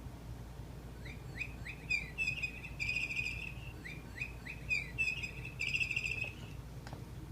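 Pet bird chirping in two runs of quick sliding chirps, each run ending in longer trilled notes.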